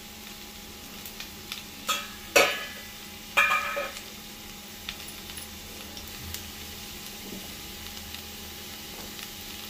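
Diced potatoes sizzling steadily in oil in a frying pan, with a few metallic clanks and scrapes of a utensil against the pan about two to four seconds in, the loudest near two and a half seconds.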